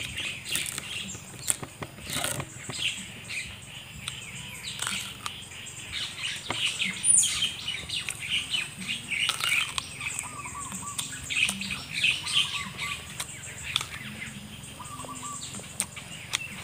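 Close-up chewing of raw green banana, with many short crunching clicks, over birds chirping all around. A short warbling bird call repeats several times in the second half.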